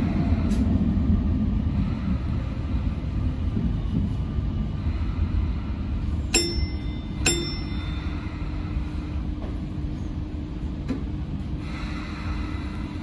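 Sotetsu 8000 series electric train running slowly, heard from the front cab: a steady low rumble, with two sharp clicks about a second apart midway.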